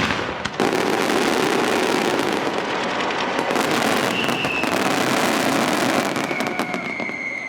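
Fireworks going off as a dense, continuous rushing with many crackles through it. A faint thin whistle-like tone comes in about four seconds in and again near the end, as the sound starts to ease off.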